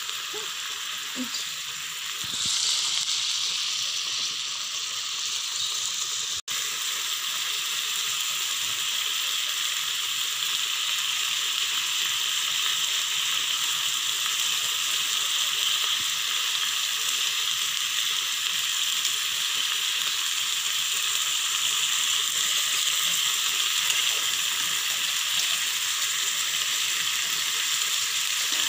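Marinated beef tapa frying in a pan, the soy-and-vinegar marinade bubbling in the oil with a steady sizzle. The sizzle grows louder about two and a half seconds in and breaks off for an instant about six seconds in.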